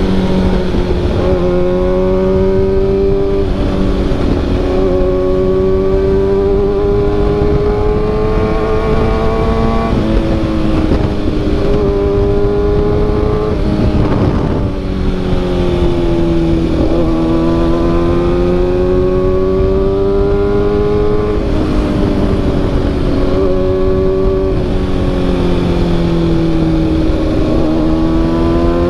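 Kawasaki ZX-6R inline-four engine running through an SC-Project CRT carbon-sleeved exhaust while riding. Its note climbs slowly over a few seconds and then drops back, several times over.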